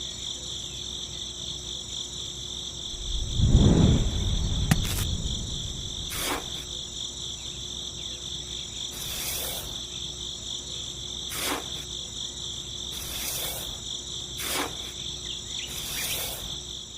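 Crickets trilling steadily and high-pitched, with a low rumble a few seconds in and about seven short sharp chirps or clicks scattered through.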